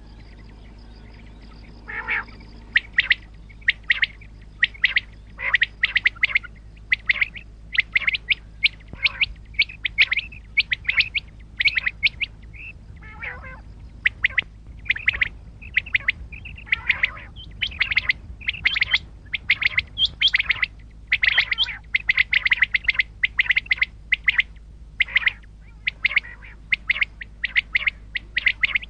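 Common quail calling: a dense run of short, sharp calls following one another rapidly, starting about two seconds in, over a steady low hum.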